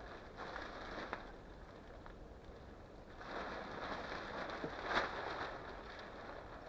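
Rustling and crunching from hands-on work, in two swells: one about half a second in and a longer one from about three seconds, with a few light clicks.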